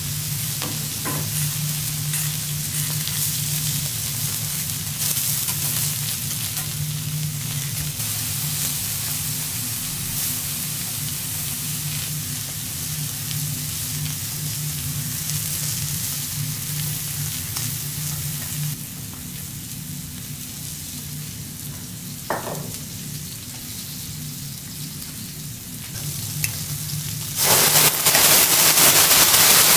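Seafood frying on a hot teppanyaki steel griddle, a steady sizzle with a few light clicks of the chef's metal spatulas, over a steady low hum. About a second after halfway through the second half, the sizzle swells into a much louder hiss.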